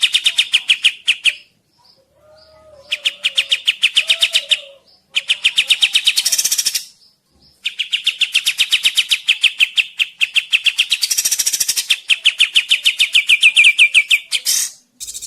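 A songbird singing fast, loud trills of rapidly repeated notes, about fifteen a second, in phrases of one to three seconds with short breaks; one long trill near the end drops slightly in pitch.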